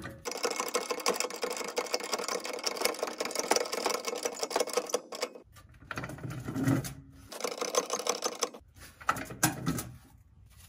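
Trolley floor jack being worked to raise a car's subframe: rapid mechanical clicking, steady for about five seconds, then in shorter bursts with brief pauses.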